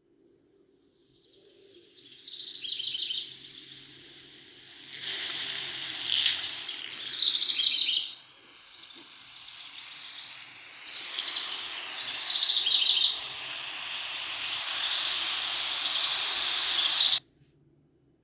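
Several small birds chirping and singing in repeated quick trills that come and go in waves, and then cut off suddenly near the end.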